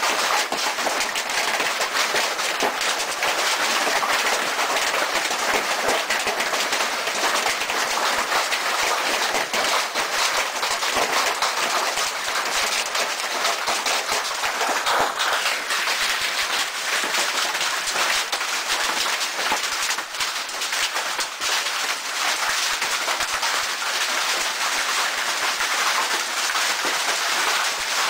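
Heavy hail pelting down in a dense, unbroken clatter of countless small impacts, steady throughout.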